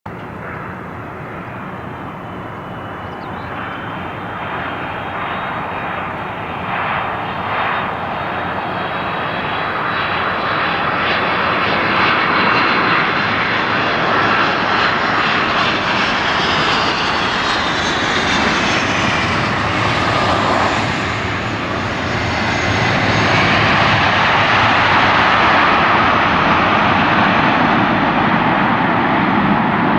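Airliner engines passing at an airport, a steady rush that grows louder over the first dozen seconds and stays loud, with a high whine sliding slowly down in pitch midway.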